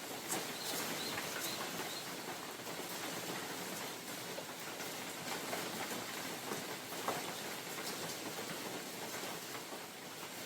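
Steady rain falling in a forest, with single drops striking leaves as scattered sharp ticks over the even hiss of the rain. Three short high chirps sound in the first second and a half.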